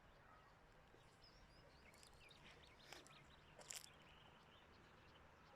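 Faint outdoor ambience with a few faint bird chirps and several short clicks clustered in the middle.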